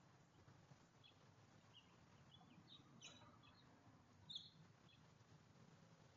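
Faint, scattered short bird chirps, a cluster of them a few seconds in, over a low steady background hum.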